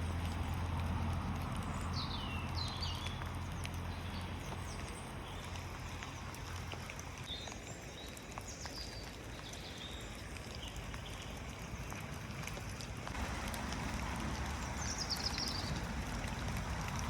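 Rain falling steadily, with a few short high chirps now and then.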